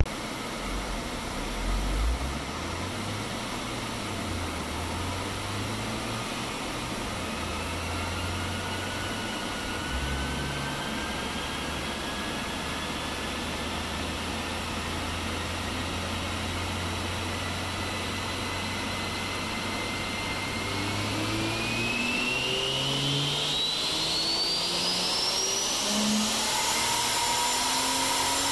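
Lexus IS300's turbocharged 2JZ-GE straight-six running on a chassis dyno under the steady rush of a large cooling fan. About two-thirds of the way through, the engine starts a pull: its note climbs steadily and grows louder, with a thin whine rising sharply in pitch alongside it.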